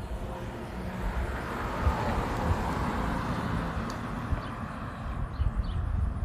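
Jet aircraft passing overhead: a rushing noise that swells over the first few seconds and then fades, over a low rumble.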